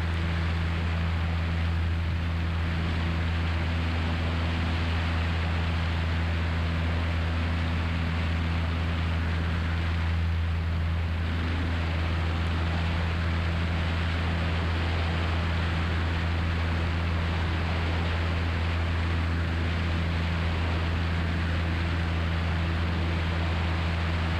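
Single-engine Cessna 172's four-cylinder Lycoming engine and propeller running steadily at climb power just after takeoff, a constant low drone under a wash of airflow noise.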